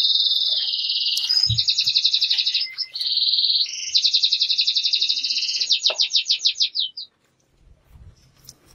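A small bird singing loud, high trills: held ringing notes alternate with fast pulsing runs. The song stops about seven seconds in.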